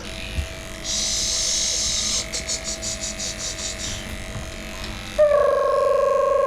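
Electric dog clippers hum steadily while a high-pitched whine and then a fast run of high squeaks sound for a few seconds. About five seconds in, a loud electronic tune starts on a held, wavering note.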